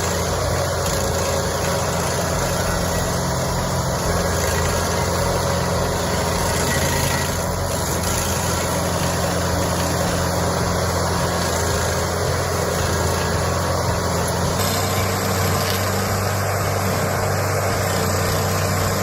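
Carlton 7015 TRX stump grinder's engine running steadily, with a slight change in tone about 15 seconds in.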